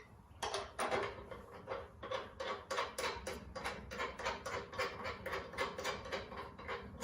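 Ratchet wrench clicking through quick strokes, about four or five clicks a second, tightening the 3/8-24 bolt that holds the mower blade.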